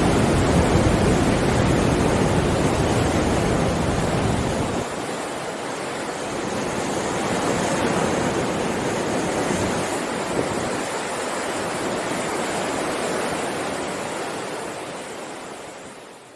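Heavy ocean surf: a continuous rushing wash of breaking waves, with a deep rumble that falls away about five seconds in, a swell of surf a few seconds later, and a fade-out near the end.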